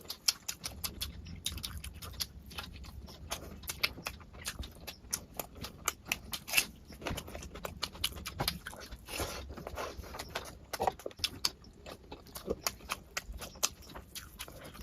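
A person chewing and smacking their lips while eating rice and curry close to the microphone: a steady, irregular stream of quick clicks.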